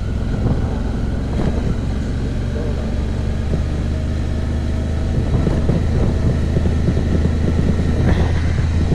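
Suzuki V-Strom motorcycle engine running on an off-road trail, a steady low drone under rough noise, growing louder about five seconds in.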